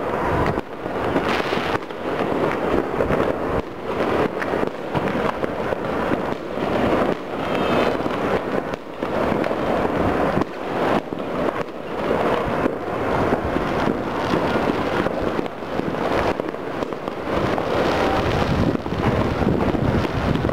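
Many fireworks and firecrackers going off at once across a city, a dense unbroken crackle of bangs and pops.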